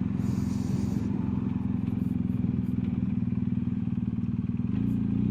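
BMW R1250GS Adventure's boxer-twin engine running steadily under way, heard on board, its note rising near the end as the bike accelerates.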